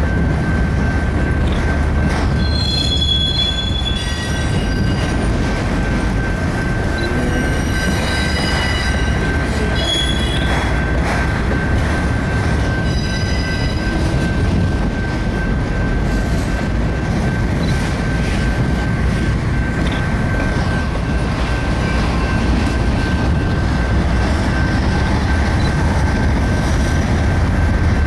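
Freight train of autorack cars rolling past at close range, a steady rumble of wheels on rail. High-pitched wheel squeals ring out several times in the first half.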